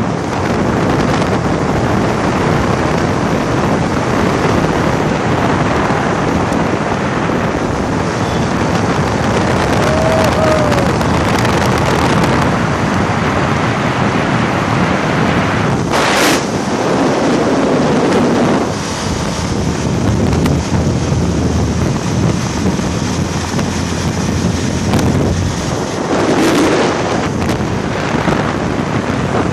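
Wind rushing over the microphone of a motorcycle riding at highway speed, a loud steady noise with road noise beneath it, swelling briefly about sixteen and twenty-six seconds in.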